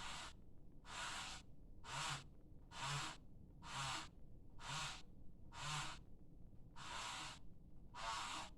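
A person breathing hard close to the microphone, a rhythmic hiss about once a second. Some breaths carry a faint low grunt.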